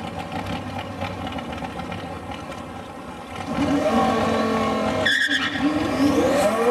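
Twin-turbo 5.2-litre V10 of a Lamborghini Gallardo: a low, rough rumble, then about three and a half seconds in it launches and pulls hard, the engine note climbing in pitch. About five seconds in the note breaks off briefly for a gear change, then climbs again.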